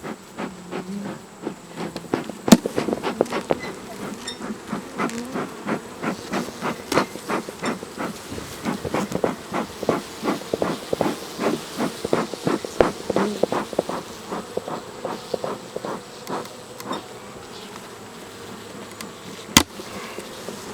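Honeybees buzzing around an opened hive, with many short clicks and knocks as propolis-glued hive boxes are pried apart; the two loudest knocks come about two and a half seconds in and near the end.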